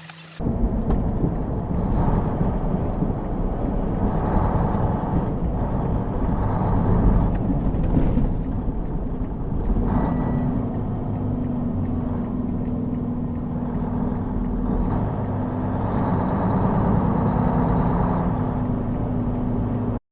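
Steady engine and road noise of a moving vehicle, starting suddenly about half a second in. A steady hum joins about ten seconds in.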